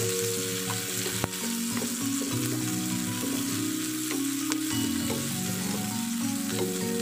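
Chopped onion, tomato, green chilli and peas sizzling in hot oil in a nonstick frying pan while a wooden spatula stirs and scrapes them, with a single click about a second in.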